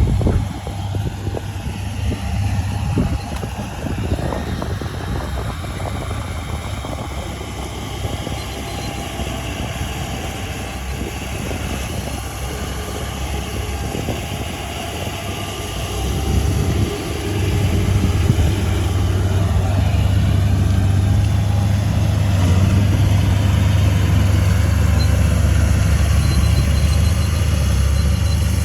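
Heavy machine's diesel engine running, with a steady low hum. It grows louder about seventeen seconds in and then holds steady.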